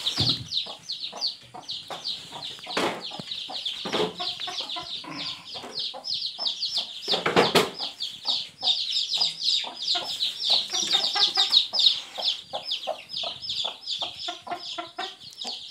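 A brood of newly hatched chicks peeping constantly in rapid, high chirps, with lower clucking from the mother hen and scattered knocks.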